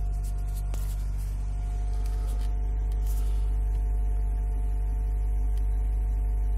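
Mercedes-Benz 190's engine running steadily, heard from inside the cabin as an even low drone. A few faint clicks sound over it near the start and about three seconds in.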